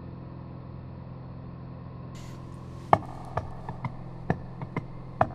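Steady drone of a Cessna 182's piston engine and propeller. About three seconds in, irregular plucked guitar notes begin over it.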